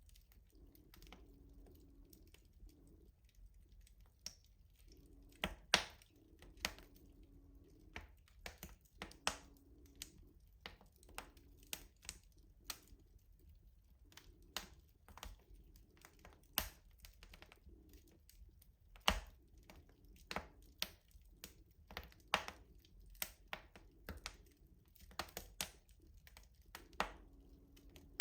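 Wood fire burning in a rustic wood-fired stove, crackling with irregular sharp pops and snaps, a few louder, over a low steady rumble.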